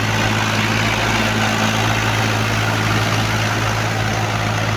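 Tractor diesel engine idling steadily, a constant low hum with no revving.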